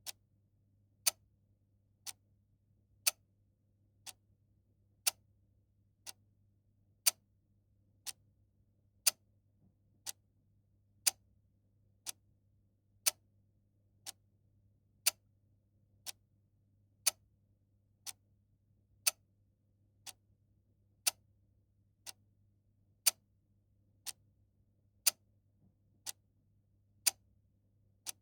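Mechanical clock ticking steadily once a second, with a sharp tick-tock that alternates a louder and a softer stroke, over a faint low hum.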